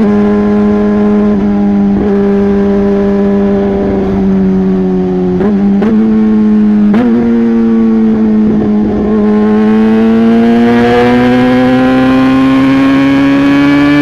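Yamaha R15 V3's single-cylinder engine running through a modified exhaust: a steady engine note with two brief dips about five and a half and seven seconds in, then climbing steadily in pitch from about nine seconds in as the revs rise.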